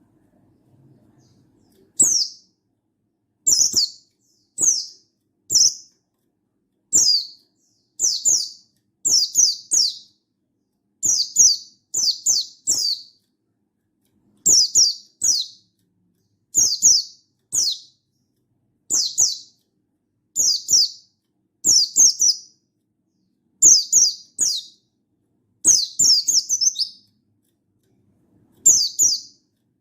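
A buxtoni white-eye (pleci) giving a long series of short, high chirping calls, each a quick run of downward-sweeping notes, about one call a second with brief pauses. It is the calling meant to answer a rival and set other white-eyes singing.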